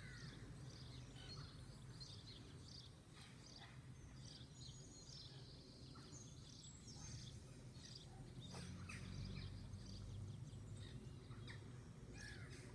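Faint scattered bird chirps and calls over a steady low rumble of background noise.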